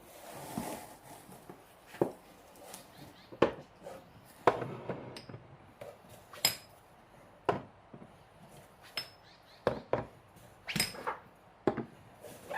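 Kitchen clatter: about a dozen scattered knocks and clinks of dishes and utensils being handled, a few of them ringing briefly.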